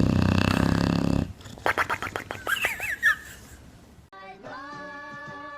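A dog vocalising loudly for about a second, followed by a run of short clicks and squeaky gliding calls; about four seconds in, background music with held tones begins.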